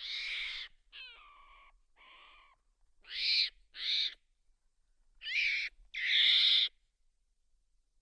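A series of about seven harsh, hissing screeches from an animal, each lasting half a second to a second. The call about a second in opens with a few falling tones.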